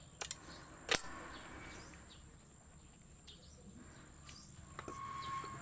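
A few sharp clicks and one louder knock about a second in, from hand work on the motorcycle's air cleaner housing, over faint outdoor background with chirping.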